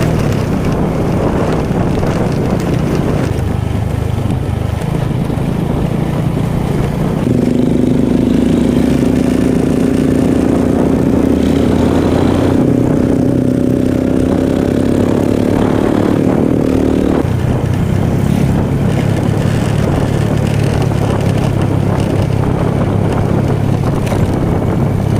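A small engine running steadily, as when riding a vehicle. A second, higher engine tone joins about seven seconds in, rises slightly, and stops abruptly about ten seconds later.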